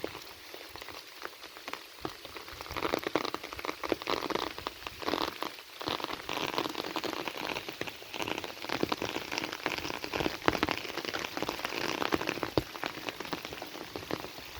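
Heavy rain falling on a surface: a dense, steady hiss full of sharp individual drop hits.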